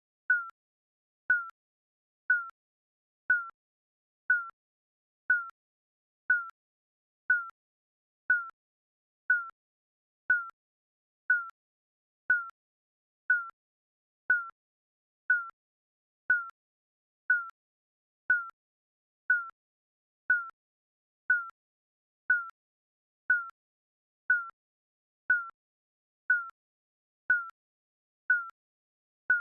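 Digital countdown timer beeping once a second: a short, high electronic beep that repeats evenly, counting off the seconds.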